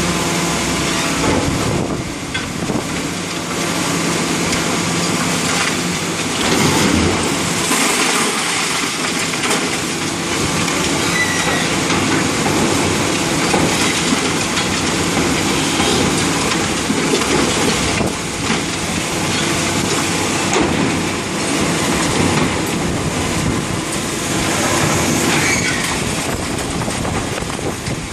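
Demolition machinery at work: a diesel engine running under load, with continuous crunching and grinding of broken concrete and debris. A steady low engine hum is plain in the first several seconds.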